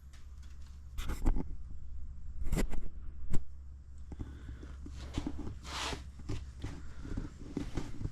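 A person moving about a workshop: footsteps and a few irregular knocks and clatters of handling, with one sharp click about three and a half seconds in and a brief hiss near six seconds, over a steady low hum.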